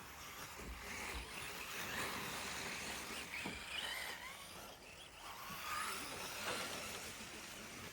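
Electric radio-controlled rally cars running on the track, their motors whining in short rising and falling glides as they accelerate and slow, over a steady hiss of tyres on the surface.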